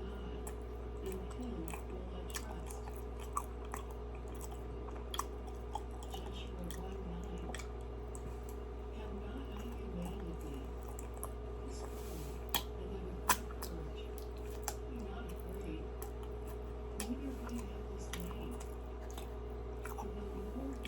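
Close-up chewing and mouth smacking while eating a Krispy Kreme doughnut, with small wet clicks throughout and two sharper clicks a little past the middle, over a steady low hum.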